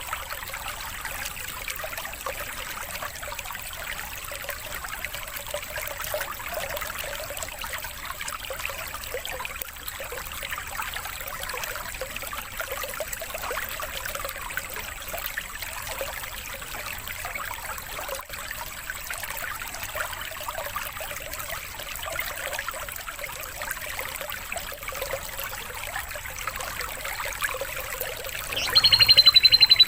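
Running water trickling steadily, the water-sound background of a bird-mastering recording. About a second before the end, a songbird breaks in with a loud, high, rapid trill.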